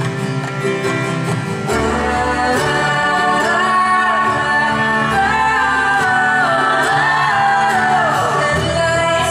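Live band music: guitars and other instruments playing steadily, with bass coming in about two seconds in and a wavering lead melody over them without clear words.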